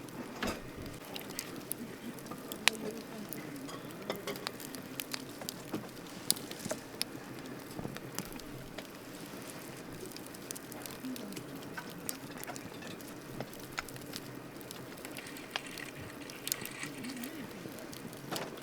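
Wood campfire crackling: irregular sharp pops and snaps over a steady low hiss, with one louder pop a few seconds in.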